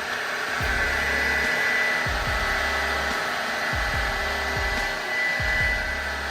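Steady whirring of a motor-driven machine with a thin high whine, over background music with a regular bass beat.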